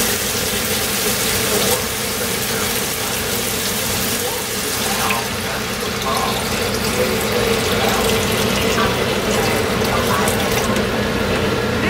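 Water running steadily from a kitchen tap, with a steady hum underneath.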